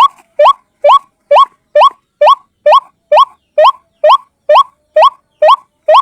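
White-breasted waterhen calling over and over: loud, short upward-sliding notes at an even pace of about two a second. It is a lure recording of the call, used to draw the birds in.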